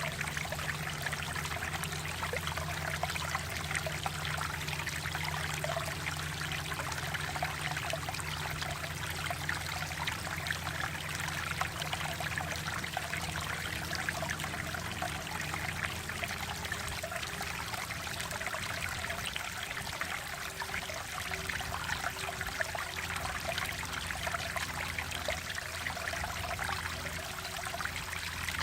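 Mountain valley stream flowing steadily: an even rush of water with fine trickling and burbling.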